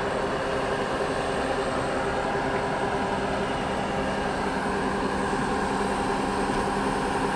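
DEMU train's diesel engine humming steadily at an even pitch.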